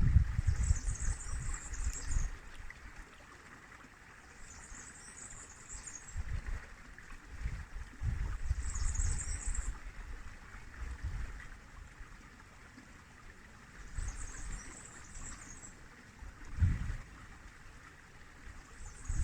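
River water flowing steadily, with uneven low rumbles coming and going. A short high-pitched chirping call repeats about every four seconds.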